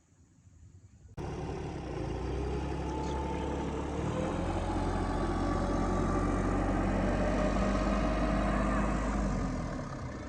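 Car engine running steadily at idle. It cuts in abruptly about a second in and dies away near the end.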